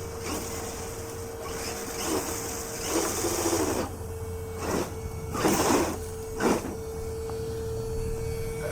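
Scale RC crawler truck's electric motor and gear train whining steadily as it drives, with several short, louder scrabbling bursts about two to six and a half seconds in.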